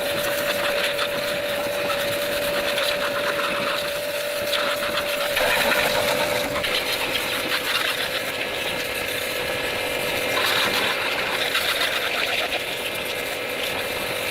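A small machine running with a rapid, even mechanical clatter. A steady whine runs with it until about five seconds in, then drops out while the clatter goes on.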